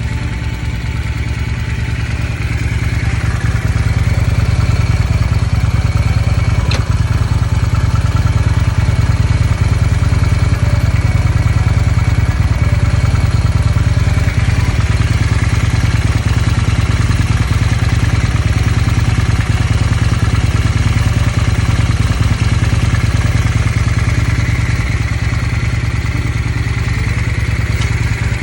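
Suzuki Steed 600 VLX's liquid-cooled V-twin engine idling steadily.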